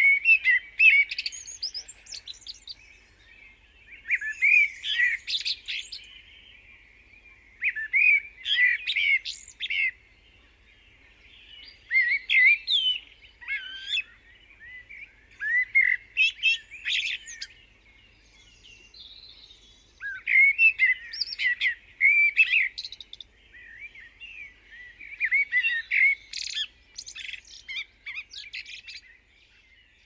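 Birds singing: bursts of quick, high chirping phrases about two seconds long, coming back roughly every four seconds with short pauses between.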